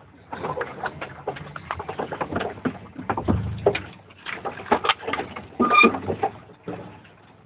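Truck cab and body knocking, rattling and creaking as the truck crawls over a frame-twister obstacle, with a low engine rumble swelling about three seconds in and one short, sharp squeak near the end.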